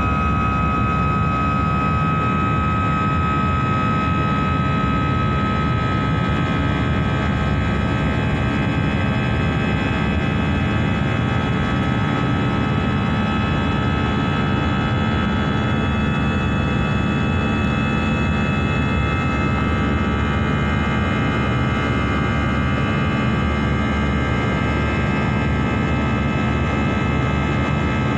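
Steady jet airliner cabin noise heard from inside the cabin: engine and airflow rumble with several steady whining tones over it, unchanging throughout.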